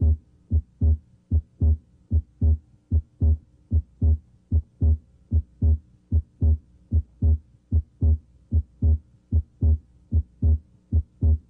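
Human heart sounds heard through a stethoscope at the left third interspace: a regular lub-dub of S1 and S2, a little over one beat a second. Here both parts of S2, the aortic A2 and the pulmonic P2, may be heard split during deep breathing.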